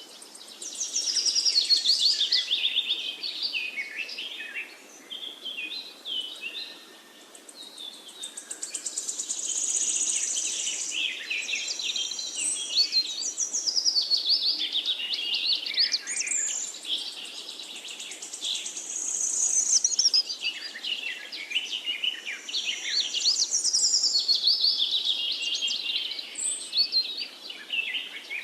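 Songbirds singing, a busy stream of high, quick chirps and trills.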